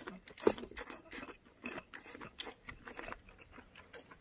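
Close-up eating sounds of a man chewing a cooked octopus tentacle: wet, irregular mouth smacks and clicks, the loudest about half a second in.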